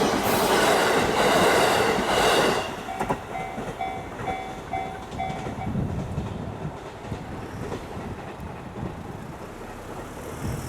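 An electric train on the JR Mito Line runs over the level crossing with wheel clatter, and its sound falls away about two and a half seconds in. Then the crossing's electronic bell rings about five more strokes, roughly two a second, and stops about halfway through, leaving a low background hum.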